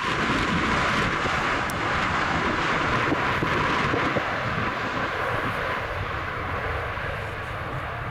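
Jet engines of a passing airliner: a steady rushing noise that eases off a little in the second half.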